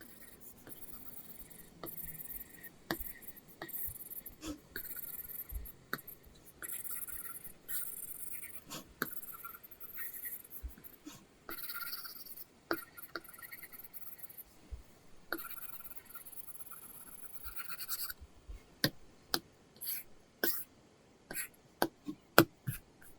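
Apple Pencil drawing on an iPad Pro covered with a paper-texture screen film: a run of scratchy sketching strokes, then near the end a series of sharp taps of the pencil tip on the screen.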